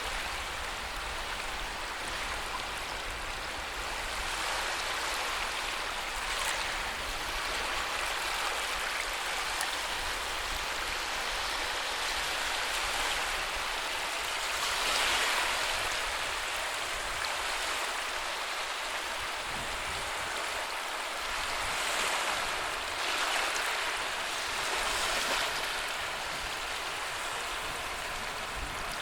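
Sea waves washing onto a shore: a continuous rush of surf that swells several times, loudest about halfway through.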